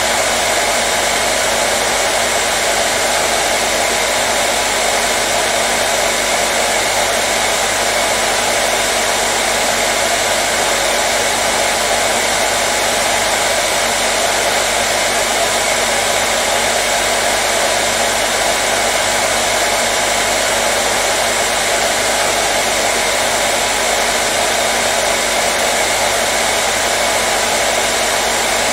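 Hair dryer running steadily: a constant, unchanging whoosh of airflow with a faint steady hum from its motor.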